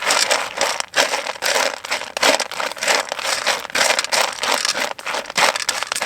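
Crinkling and rustling in quick irregular bursts, something crinkly being handled and shifted about.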